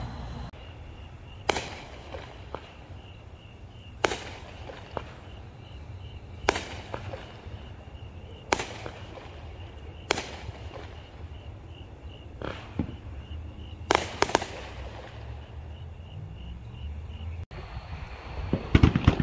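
Fireworks going off: sharp single bangs every two seconds or so, a quick double bang about two-thirds of the way through and a flurry of bangs near the end.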